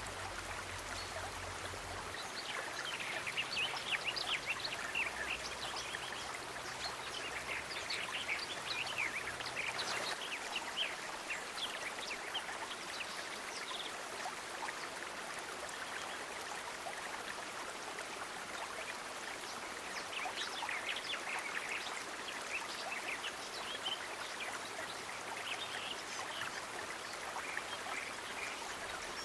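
Steady rush of running water, a small stream trickling, with many quick little splashes and drips coming in clusters.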